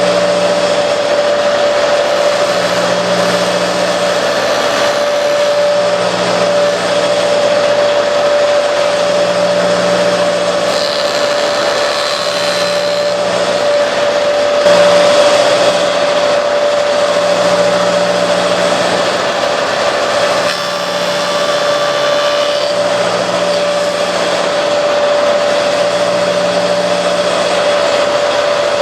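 Metal lathe running steadily while a wooden tire blank is turned: a constant motor whine over a steady machining noise, with a low hum that swells and fades every couple of seconds.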